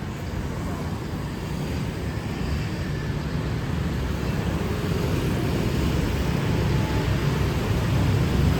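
Street traffic noise: a steady rumble of passing vehicles that grows slowly louder.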